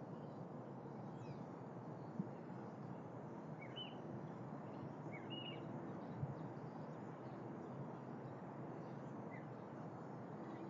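Steady outdoor background noise with a few short bird chirps, a pair around 4 seconds in, a pair around 5 seconds and one near the end, and two faint knocks.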